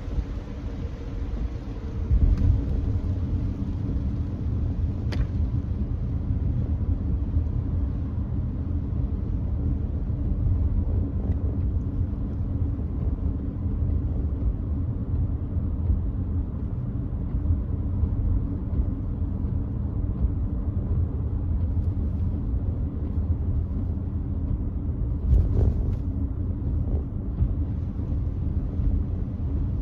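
Steady road and tyre rumble inside a Nissan Note e-POWER cruising on a wet expressway. A sharp click comes about five seconds in, and a brief louder bump comes near the end.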